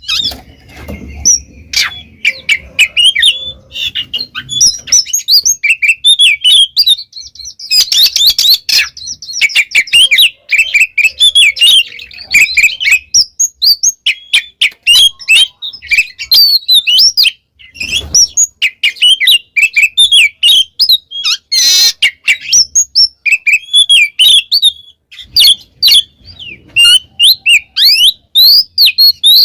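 Oriental magpie-robin (kacer) in full, continuous song: a rapid, unbroken stream of loud, varied chirps, whistles and quick trills, with a brief harsh rasp about three-quarters of the way through.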